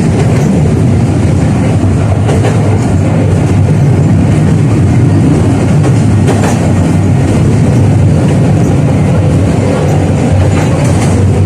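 A 71-605A (KTM-5A) tramcar running along the track, heard from inside the car: a steady, loud rumble of wheels on rail, with a few clicks over the rail joints.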